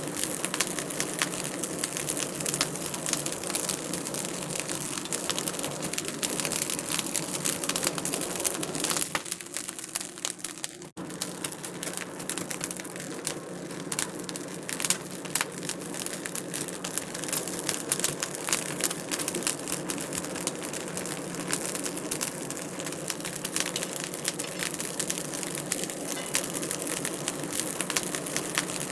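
Wood fire crackling in a fireplace: a dense run of small pops and snaps over a soft hiss. The sound dips about nine seconds in and cuts out for an instant about eleven seconds in before carrying on as before.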